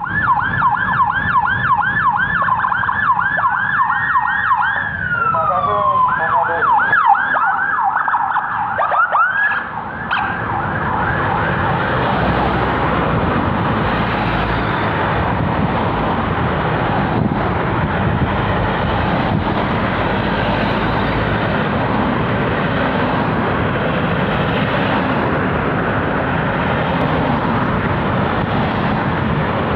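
Police escort siren in a fast yelp, about two or three sweeps a second, broken once by a falling wail. It stops about ten seconds in, leaving a steady noise of passing traffic.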